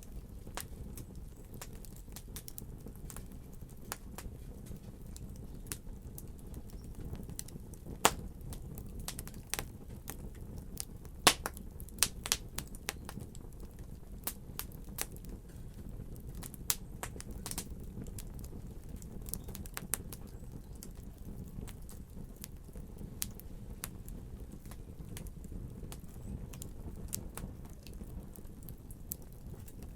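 Wood fire burning in a fireplace: a steady low rumble with irregular sharp crackles and pops throughout, the loudest pops about 8 seconds in and in a cluster around 11 to 12 seconds.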